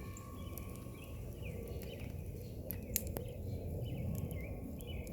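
Songbirds singing, with many short, repeated chirps and whistles over a steady low rumble. A single sharp click comes about three seconds in.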